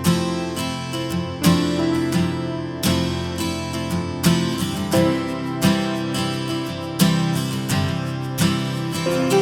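Background music: an acoustic guitar strummed in a steady, even rhythm.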